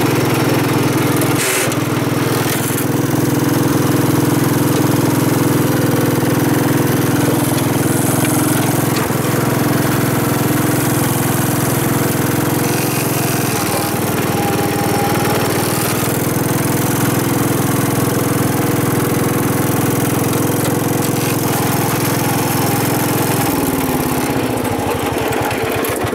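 1974 Wheel Horse B-80 garden tractor's single-cylinder engine running steadily, with a single knock early on. Near the end the engine slows, its pitch falling as it winds down.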